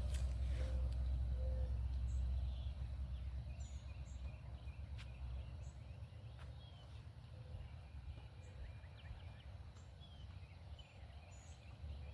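Rural outdoor ambience: birds calling here and there over a faint background of insects, with a low wind rumble that eases after about two and a half seconds.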